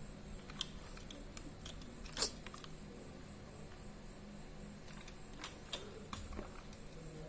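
Quiet handling noises: a few scattered light clicks and taps, a sharper one about two seconds in, over a low steady hum.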